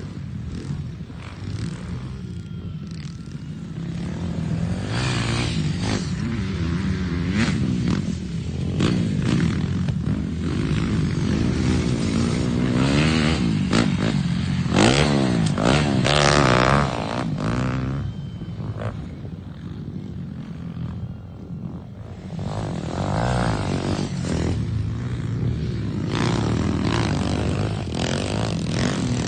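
Dirt bike engines revving up and down as bikes ride the motocross track, growing loudest a little past the middle as a bike passes close, then falling away.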